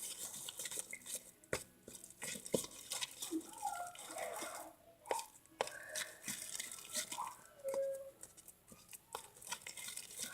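Sticky homemade glitter-glue slime being kneaded and pulled by hand: irregular small wet squelches, pops and clicks. The slime is still sticky and not yet fully set by the activator.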